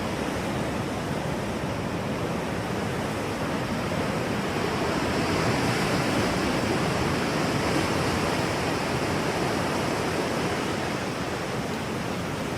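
Steady rushing water, an even roar that swells slightly in the middle.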